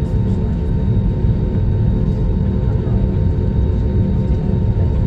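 Airliner cabin noise: the steady low rumble of the jet engines and airflow, with a faint steady hum running through it.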